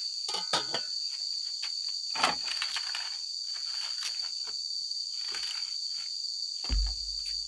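A chorus of insects droning on one steady high pitch. Over it come scattered light clicks and knocks of handling, and a dull thump near the end.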